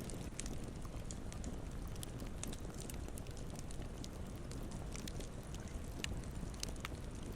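Campfire burning with a steady low rumble and scattered small crackles and pops of burning wood.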